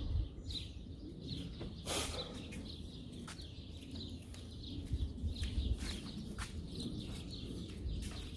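Small birds chirping repeatedly in the background, with a few sharp clicks, the loudest about two seconds in.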